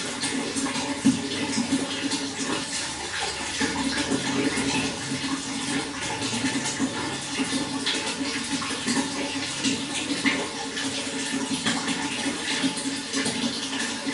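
Water running and splashing continuously, a steady rushing with many small splashes.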